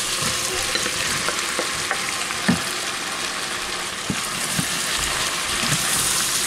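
Carrots, onions and potatoes sizzling in butter in a pot: a steady frying hiss, with a wooden spoon stirring through them and knocking softly against the pot every second or so as browned beef cubes go back in.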